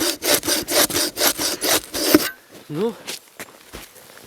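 Bow saw cutting through a log in quick, even back-and-forth strokes, about four or five a second, stopping a little over two seconds in.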